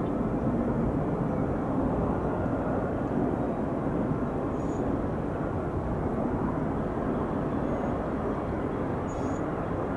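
Jet airliner engine noise, a steady even rumble with no rise or fall. Two faint short high chirps, about halfway and near the end.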